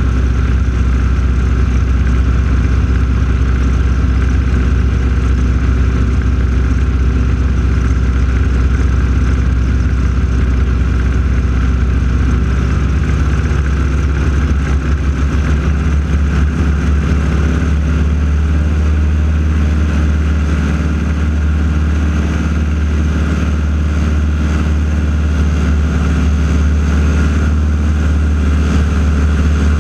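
Propeller aircraft radial engines droning steadily in flight: the AeroShell team's North American T-6 Texans. Their pitch shifts about halfway through.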